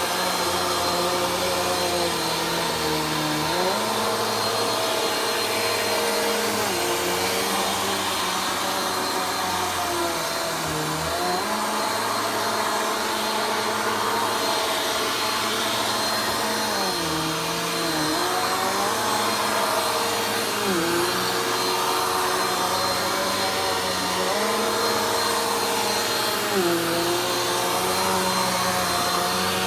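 Vacuum cleaner running without a break during slow vacuuming. Its motor hum dips and shifts in pitch every few seconds.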